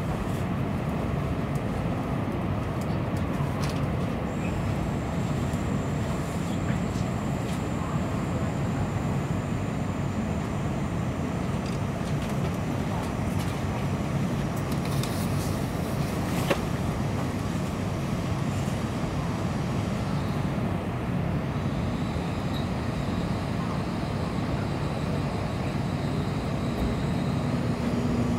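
Steady low rumble heard inside a Tokaido Shinkansen car as the train runs slowly along a station platform. A faint thin high whine comes in from about four to twelve seconds in, and a lower one around twenty seconds in.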